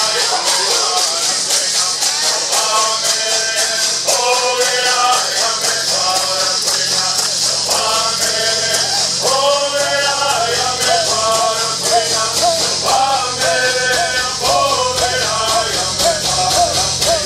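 Southern California bird singing: a group of male voices singing together in unison, with gourd rattles shaken to a steady, even beat.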